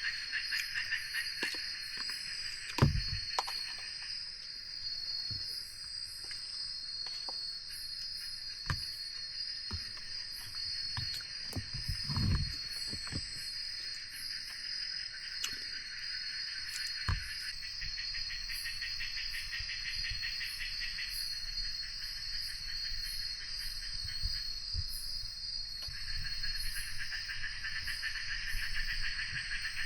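Forest insects: a steady high drone with a fast pulsing trill that stops and starts in long stretches. A few soft low thumps come through.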